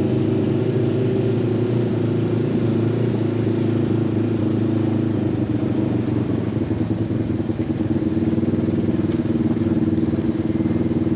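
Side-by-side UTV engine running at a steady speed, its pitch holding even throughout.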